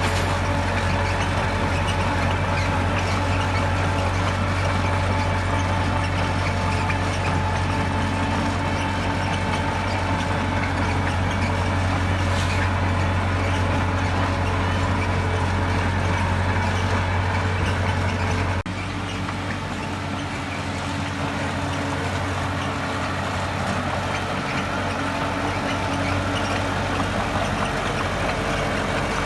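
Diesel engines of heavy earthmoving machinery running steadily with a deep hum. A bit over halfway through the sound cuts off abruptly into a slightly quieter, thinner engine sound without the deep hum.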